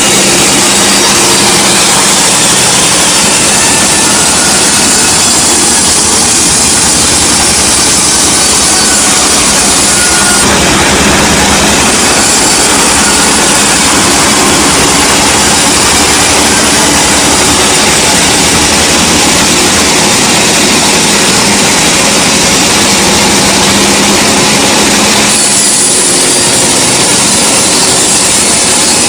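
Sawmill saw cutting through a log: a loud, continuous sawing noise over the steady hum of the mill's engine. The cut's sound shifts about ten seconds in and again near the end.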